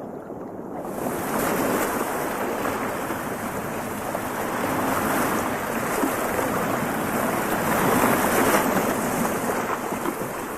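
Water splashing and churning as an osprey swims across the lake surface with a heavy fish, starting about a second in and swelling and easing.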